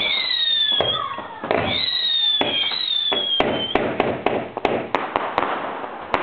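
Garden fireworks: three whistling shots, each falling in pitch, in the first four seconds, then a rapid run of sharp bangs and crackles, several a second.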